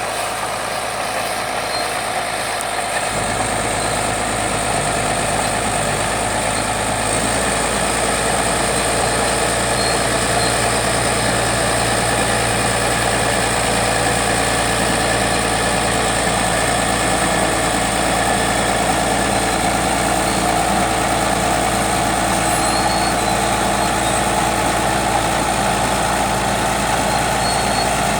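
Bulldozer's heavy diesel engine running steadily, with a low hum that steps up about three seconds in.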